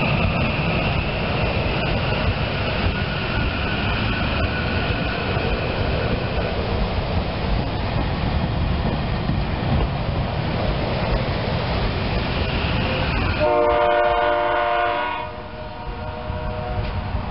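SEPTA Silverliner electric commuter railcars passing close by, wheels rumbling on the rails with a faint steady high whine. About thirteen and a half seconds in, a train horn gives one blast of about a second and a half.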